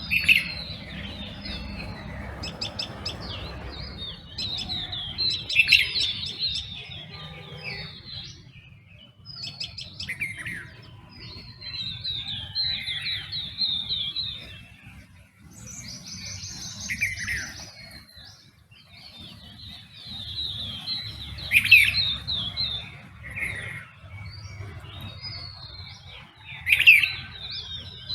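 Several birds singing and calling over one another in a dawn chorus: overlapping chirps and repeated short song phrases, with a few louder, sharp calls standing out now and then.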